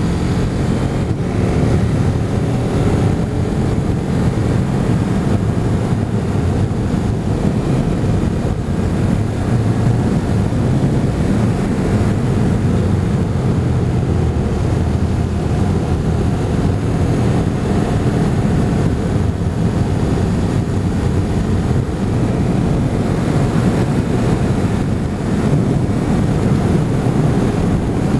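Motorcycle riding at speed: wind buffeting the microphone in a steady low rush, with the engine's note faintly beneath it.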